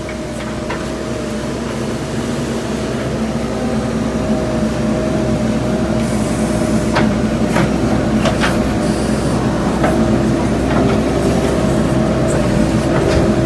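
JCB backhoe loader's diesel engine running steadily and slowly getting a little louder, with a few sharp clicks or knocks about halfway through.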